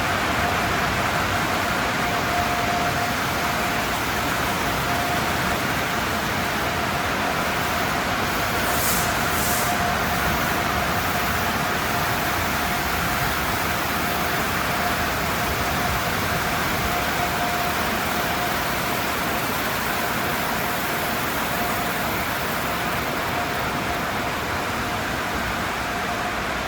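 Automatic tunnel car wash equipment running: a steady rushing hiss with a faint constant whine, and a short extra hiss about nine seconds in.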